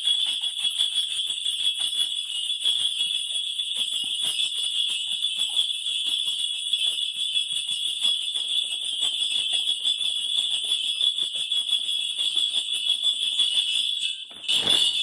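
A cluster of Korean shaman's brass bells (mubang-ul) shaken continuously in rapid jingling, calling down the spirit before a divination; it breaks off briefly near the end.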